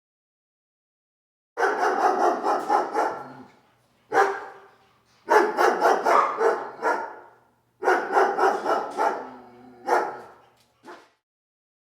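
A dog barking in quick runs of several barks, four bouts separated by short pauses, with one last short bark near the end.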